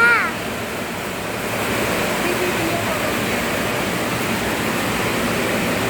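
Steady rush of running water during a cat's bath. A brief falling cry is heard at the very start.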